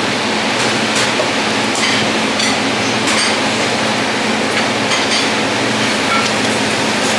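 Commercial kitchen noise: a constant loud hum and rush, with scattered sharp clinks and knocks of utensils and dishes.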